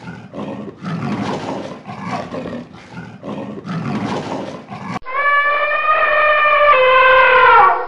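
A cheetah's rasping, pulsed growling, a run of rough breaths repeated irregularly. About five seconds in, an elephant trumpets: one long, loud call that drops in pitch near the end.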